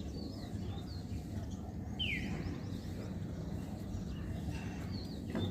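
Birds chirping: one clear falling chirp about two seconds in, with fainter short chirps around it, over a steady low background rumble.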